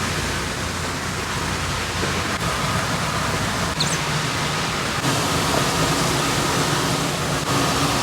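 Steady rushing noise with a faint low hum underneath, unbroken and even throughout.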